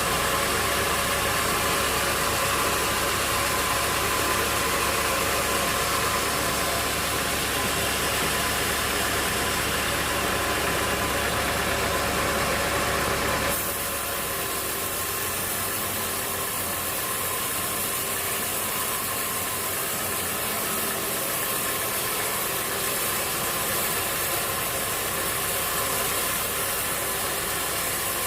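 Steady running of a motor or machinery, a constant dense hum and hiss that changes abruptly about halfway through and then carries on steadily.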